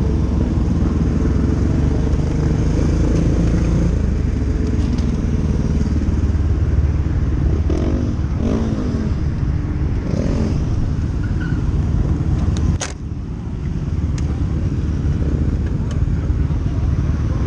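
Motorcycle engine running steadily with a low drone, its pitch shifting a few times midway, and one sharp knock about three quarters of the way through.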